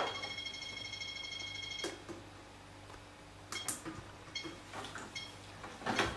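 A few faint clicks and light knocks. A steady high tone runs through the first two seconds and stops at a click.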